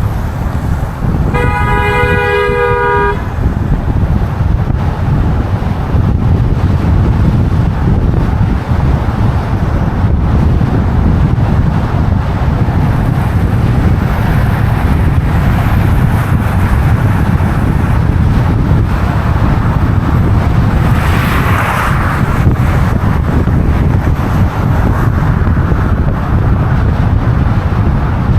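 Steady street traffic noise with a loud low rumble, and a car horn giving one long honk of about two seconds just after the start. A short hiss rises and falls about three quarters of the way through.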